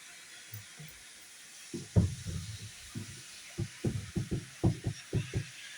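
Railway brake van rolling along, its wheels knocking over the rail joints in short, low knocks that come more often toward the end, under a steady hiss.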